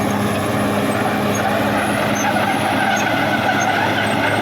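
Caterpillar D6R XL bulldozer's diesel engine running steadily.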